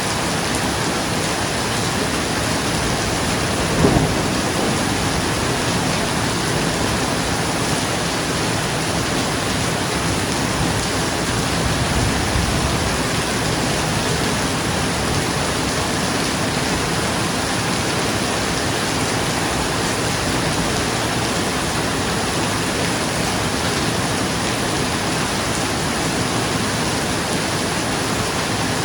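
Steady rain falling on a roof, with a sudden crack of thunder about four seconds in and a low rumble of thunder around twelve seconds.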